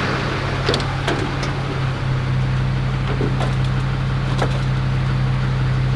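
Steady drone of a vehicle on the move: a low, even engine hum over road noise, with a few faint ticks.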